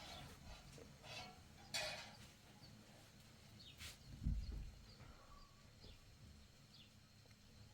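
Small birds chirping faintly, a short high falling chirp every second or so. There is a brief rustle about two seconds in and a low thump just after four seconds in.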